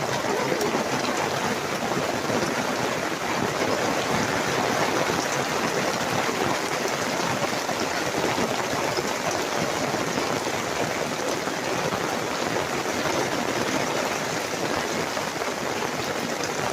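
Heavy rain falling steadily, heard from under a garden gazebo, with the downpour on the canopy and the garden around it.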